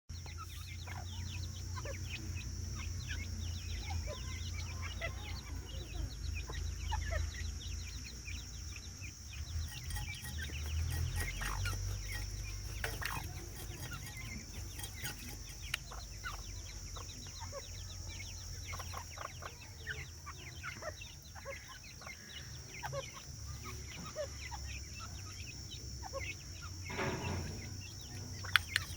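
Partridges (teetar) clucking and chattering, with many short sharp calls scattered throughout and a longer, louder call about 27 seconds in, over a steady low hum.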